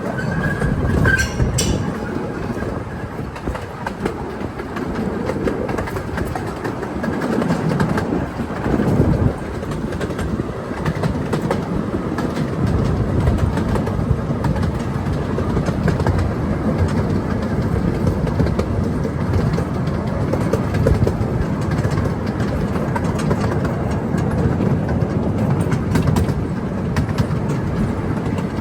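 Train running on the track, with its wheels making a steady noise on the rails throughout.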